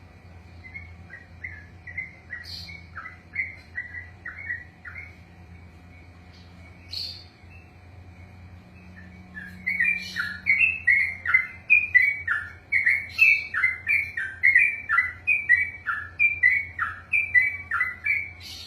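Yellow-vented bulbul singing a long string of quick, falling whistled notes: a short, quieter run in the first few seconds, then from about halfway a louder unbroken run of two to three notes a second, the long rolling song that bird keepers call ropelan.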